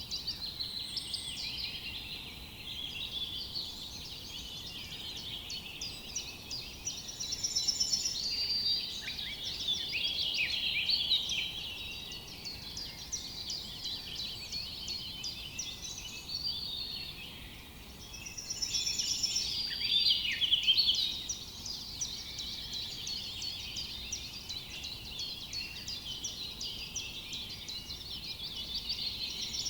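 Forest birdsong: several birds chirping and trilling in a dense, continuous chorus over a faint steady hiss, swelling louder twice, about a quarter of the way in and again about two-thirds of the way in.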